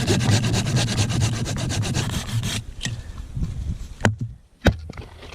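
A fast, rhythmic rasping scrape for about two and a half seconds, then a few separate sharp knocks.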